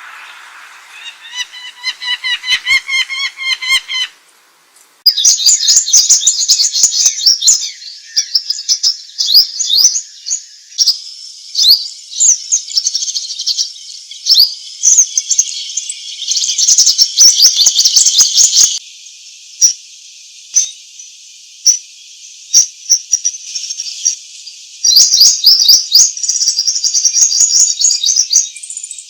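Songbirds singing: fast high chirps and trills, with a run of quick pulsed notes near the start. The song changes abruptly every few seconds, like separate recordings joined together.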